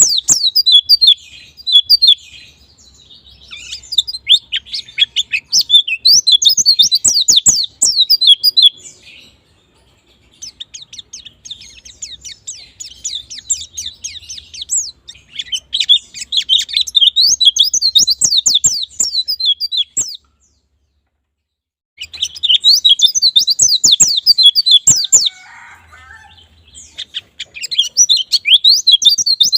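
White-eye (pleci) song: rapid, high-pitched chattering and twittering phrases delivered in long bursts with short breaks, including a pause of about two seconds a little past the middle.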